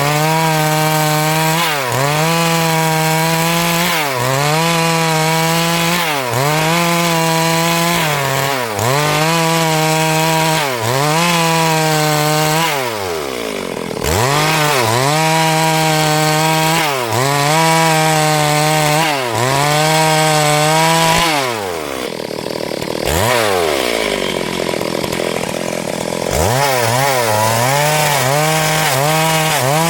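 Stihl MS382 two-stroke chainsaw at high revs ripping lengthwise through a hardwood log. The engine pitch dips and recovers about every two seconds as the saw loads in the cut. It falls sharply toward idle twice, once briefly around the middle and once for several seconds later on, then revs back up.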